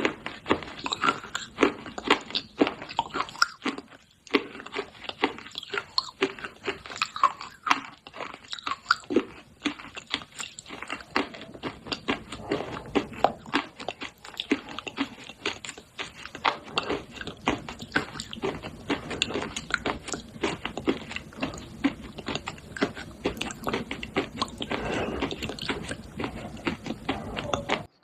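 Pieces of dry clay pot being bitten and chewed: a rapid, irregular run of crunches, with a brief pause about four seconds in.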